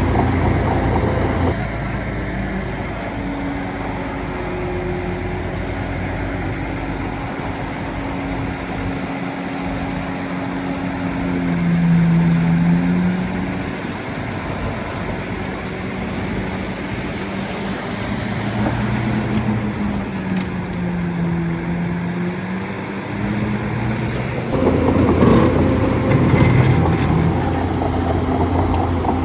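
Bulldozer engine running, its pitch rising and falling as the load changes, with a heavier low rumble at the start and again from about 25 seconds on.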